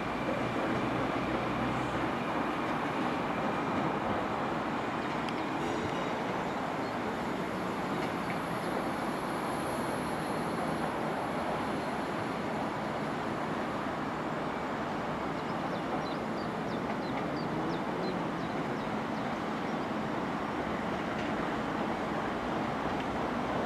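Class 156 diesel multiple unit pulling away from the platform, its diesel running as a steady, even rumble.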